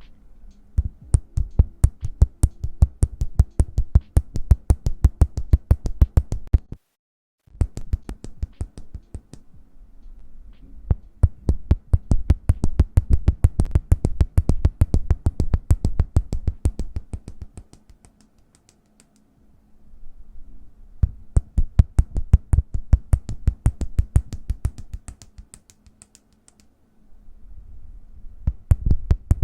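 Hands tapping and patting close to the microphone in a fast, even rhythm of several strokes a second, each stroke with a deep thump. The tapping cuts out briefly about seven seconds in, and later dies away for a moment before building up again.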